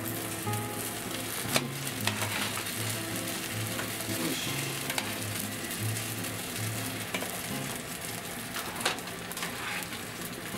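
Cream sauce with bacon and onion sizzling in a frying pan as boiled spaghetti is dropped in and stirred through it, with a few sharp clicks.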